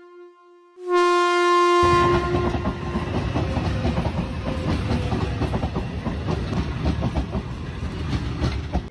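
A passenger train's horn sounds for about a second, then the train passes close by, its wheels clattering rapidly on the rail with a heavy rumble. The sound cuts off suddenly near the end.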